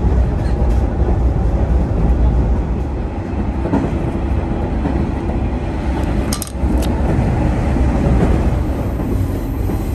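Diesel railcar train running along the track with a steady low rumble, and two short clicks a little past halfway.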